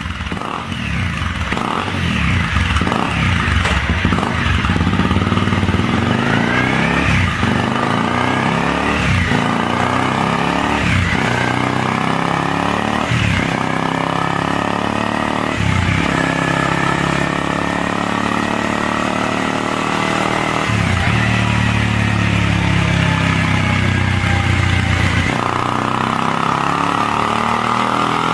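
Honda CBR250R's single-cylinder engine heard through a WRS aftermarket exhaust, revved over and over in throttle blips that rise and drop back. Near the end it holds a longer, steadier rev.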